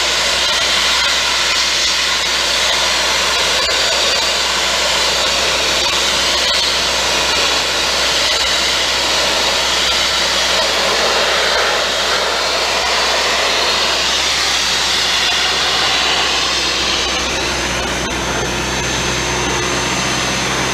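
Sandblasting: compressed air and abrasive hissing steadily from a blast nozzle against a truck frame. Near the end the hiss thins and a steady hum with a thin high whine comes through.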